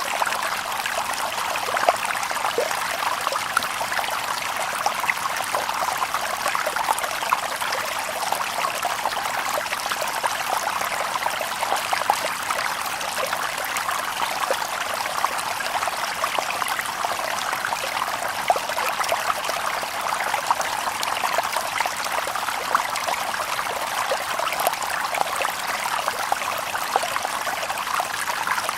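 Small stream babbling and trickling over stones, a steady bright splashing with many fine flickering droplet sounds and little low rumble.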